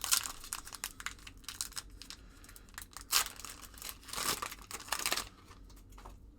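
1990-91 Skybox basketball trading cards being handled: a series of quick rustling, scraping strokes of card stock sliding against card stock. The loudest come just after the start, about three seconds in, and in a cluster from about four to five seconds in.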